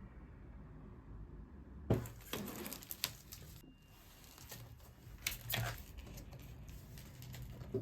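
Quiet handling noises: a few short rustles and light knocks spread through the last two-thirds, over a faint low room hum.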